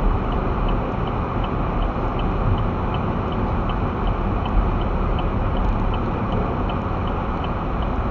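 Steady road and engine rumble inside a moving vehicle's cabin, with the turn signal clicking evenly, about three ticks a second.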